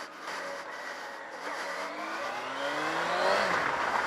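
Yamaha FZ6 sportbike's inline-four engine pulling hard under acceleration, its pitch climbing, dipping once near the end at a gear change and climbing again, over steady wind rush.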